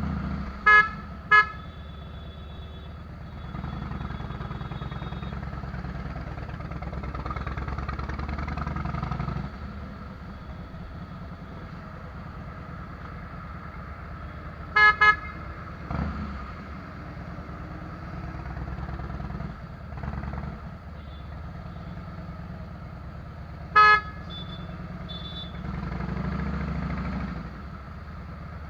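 Harley-Davidson Fat Boy V-twin running through Vance & Hines fishtail exhaust, a steady low rumble that swells as it is revved about four seconds in and again near the end. Short horn toots cut through it, twice about a second in, twice around the middle and once more later, louder than the engine.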